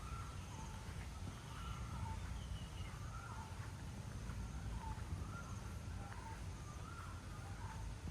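Birds calling outdoors, short pitched notes repeated about once a second, some dipping in pitch, over a steady low rumble.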